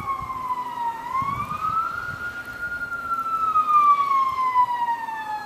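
Police car siren wailing, its pitch sliding down, rising again about a second in, then falling slowly.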